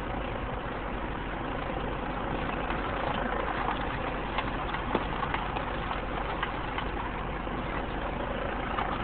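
A vehicle engine idling steadily, with a few faint clicks partway through.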